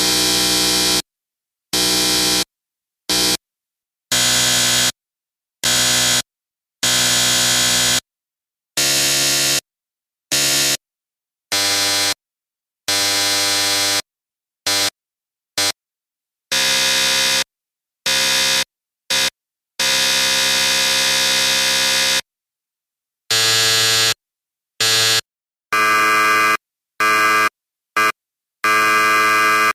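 Electric buzzer sounding in a series of blasts of uneven length, from short taps to a held buzz of about two seconds, each a harsh, raspy tone that starts and stops abruptly with silence between.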